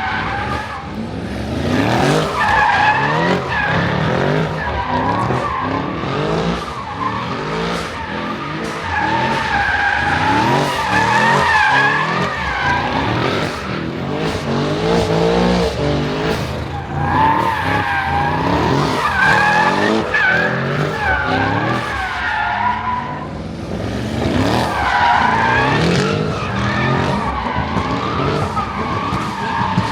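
Car tyres squealing in long, wavering screeches, over engines revving up and down again and again: cars spinning donuts. The squeal eases briefly about halfway through and again near 23 seconds, then comes back.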